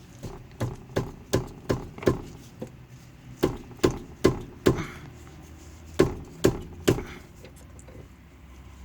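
A series of sharp knocks from hand tools on the car's brake and wheel during reassembly, in three runs of about two to three strikes a second.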